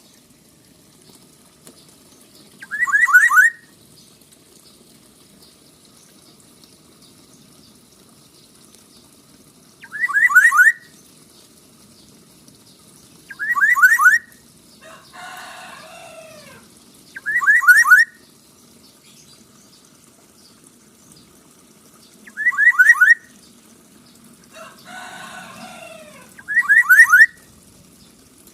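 Black-naped oriole (kepodang) calling: six loud, short phrases of quick repeated notes, a few seconds apart. Two quieter, harsher, drawn-out calls come between them.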